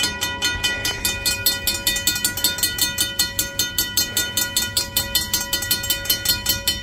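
Railroad grade-crossing bell ringing in quick, even strokes, about five a second, over the low rumble of a passing freight train.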